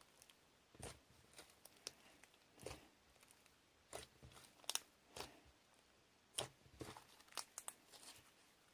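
Faint, scattered crunching and rustling clicks, about a dozen separate short sounds with no steady rhythm, a couple of sharper ones about halfway through.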